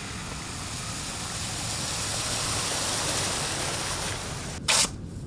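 A steady rushing noise that swells to its loudest about three seconds in and then eases, with a short, loud hiss near the end.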